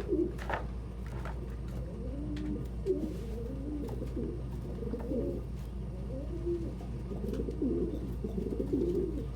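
Domestic pigeons cooing: low, warbling coos repeated throughout.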